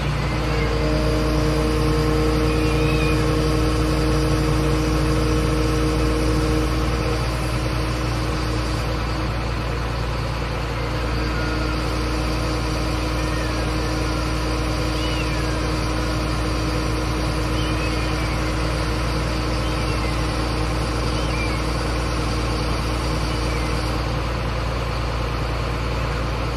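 Large vehicle engine idling steadily, most likely the fire engine, a continuous low rumble with a steady hum over it for the first seven seconds or so. Faint short high cries come now and then over the engine.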